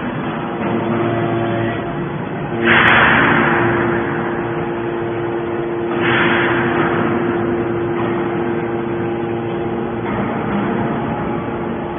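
Hydraulic scrap-metal baler running: a steady machine hum with two loud rushing surges, about three and six seconds in, that each fade away over a second or two.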